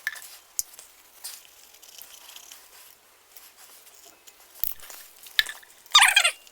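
Paper towel wrapped over a scraper, wet with nail polish remover, rubbed in short strokes over a plastic wheel center cap to lift the excess nail polish. The strokes are scattered and light, with one louder rub lasting about half a second near the end.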